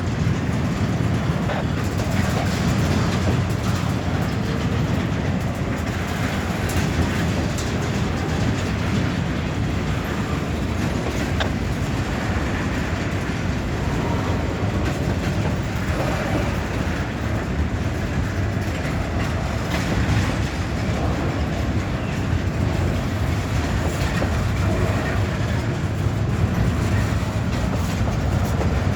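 Freight train's cars rolling steadily past with a continuous rumble and the clack of wheels over rail joints.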